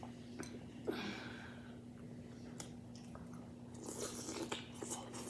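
A person chewing a mouthful of seafood boil, with soft wet smacks and small clicks, over a steady low hum.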